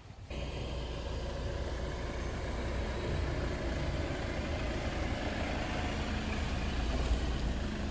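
Jeep Wrangler's engine idling with a steady low rumble, which comes in abruptly just after the start.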